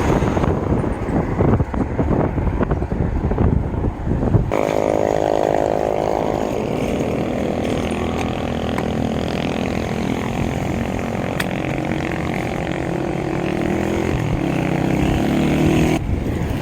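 Wind buffeting the microphone of a moving bicycle, then about four and a half seconds in a steady engine hum takes over, its pitch shifting slowly, until just before the end.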